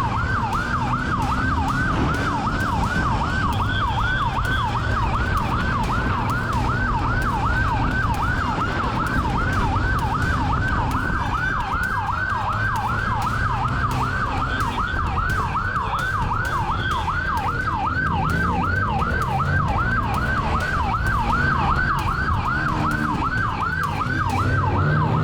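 Police motorcycle siren on a fast yelp, sweeping up and down about three times a second, over the running motorcycle engine during a pursuit.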